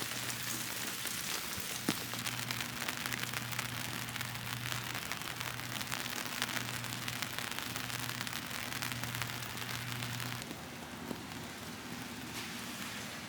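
Steady rain falling, a dense patter of drops, with a low hum underneath; the hum and part of the rain hiss drop away about ten seconds in.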